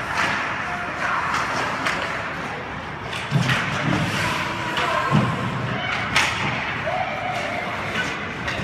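Several sharp knocks and thuds, the loudest about six seconds in, over a steady murmur of voices with short shouts.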